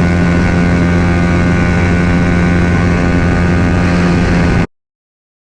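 Yamaha R15 V3's single-cylinder engine running through a Daytona full-system exhaust at steady, held revs, the pitch barely changing, with wind and road noise. It cuts off abruptly about four and a half seconds in.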